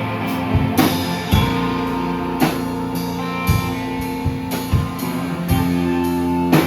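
Band playing live: held guitar and bass notes over drums, with a sharp drum hit about every half second to a second.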